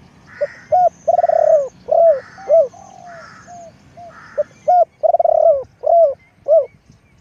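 Spotted dove cooing: a run of about a dozen short, arched coos with two longer rolling notes, stopping about six and a half seconds in. A thin high trill from a smaller bird runs through the first half.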